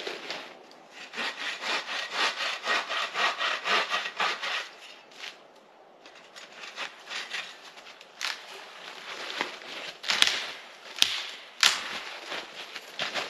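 Hand saw cutting through wood in quick back-and-forth strokes, about three or four a second, pausing briefly midway and then going on more lightly. A few sharp cracks or knocks come near the end.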